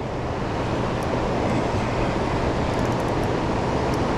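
Steady rushing noise of fast-flowing dam tailwater, with a few faint ticks on top.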